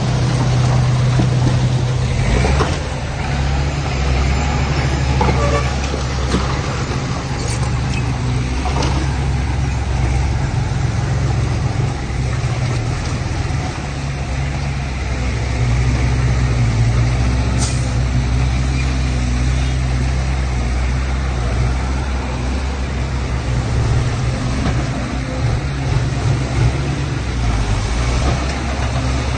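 Heavy diesel engine of earthmoving machinery running steadily under load, with a few sharp knocks or hisses along the way.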